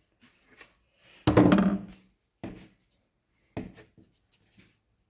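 Plastic blower tube sections being handled and pushed together: a short vocal sound about a second in, then a couple of sharp knocks and a few faint rubs and ticks.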